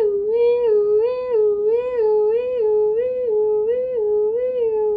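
A woman's voice imitating a two-tone fire-engine siren, humming a steady high-low 'wee-oo' that swings between two notes about eight times.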